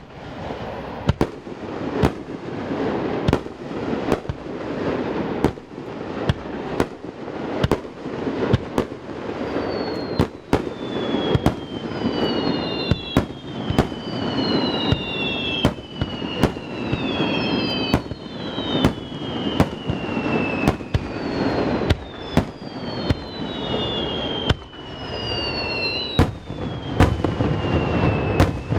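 Fireworks display: a rapid, continuous barrage of shell bursts and crackling. From about a third of the way in, several whistling fireworks overlap, each whistle sliding downward in pitch.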